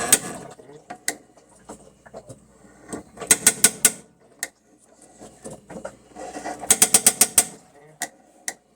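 Rapid mechanical clicking like a ratchet, in two bursts of several clicks each, about three and a half and seven seconds in, with scattered single clicks between; it opens with a louder clatter.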